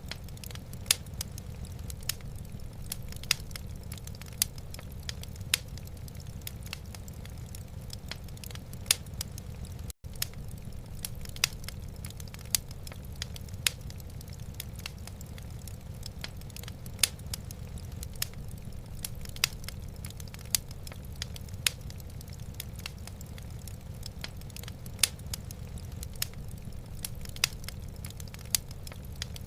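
Wood fire in a fireplace crackling, with sharp irregular pops and snaps over a steady low rumble. The sound drops out for an instant about ten seconds in.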